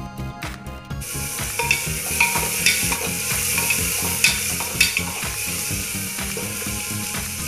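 Sliced onion and tomato sizzling in hot coconut oil in a pressure cooker; the sizzle starts about a second in. A wooden spatula scrapes and knocks against the pot several times as they are stirred, over quiet background music.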